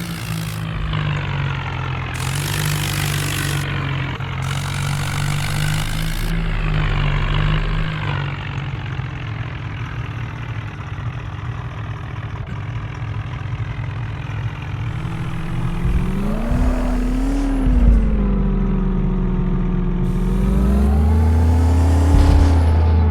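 A vehicle engine running steadily, then revving up and easing off twice in the second half.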